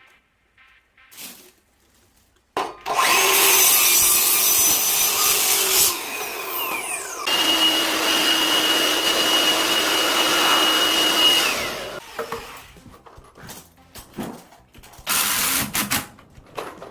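Electric power tool motor running under load in two spells of several seconds each, winding down with a falling pitch after each. A shorter burst follows near the end.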